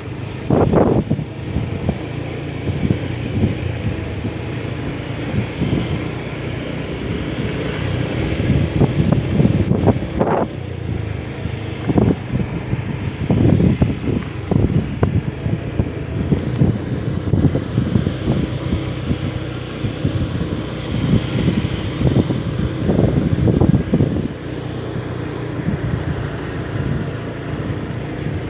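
Wind buffeting the microphone in irregular gusts, over a steady low rumble.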